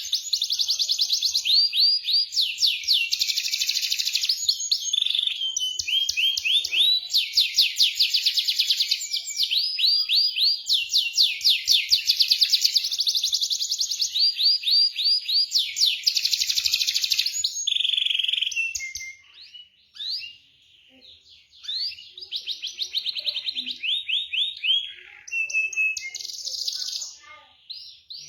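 Domestic canary singing a long song of fast trills and rolling phrases of rapidly repeated notes, with a short lull about two-thirds of the way through.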